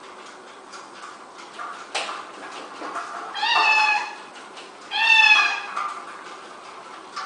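A domestic cat meowing twice, about a second and a half apart, each call under a second long and dropping slightly in pitch at its end. A few light taps come before the calls.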